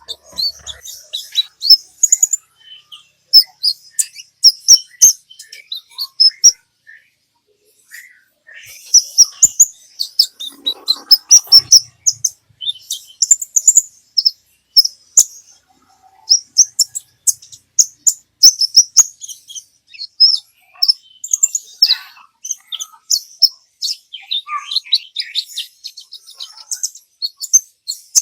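Olive-backed sunbird (kolibri ninja) singing full song: rapid strings of high, sharp chirping notes, broken by a pause of about a second and a half some six seconds in.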